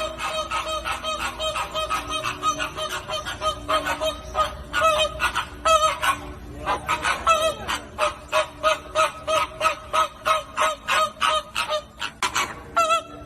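A flock of flamingos honking: a continuous chatter of short, goose-like calls from many birds, several a second.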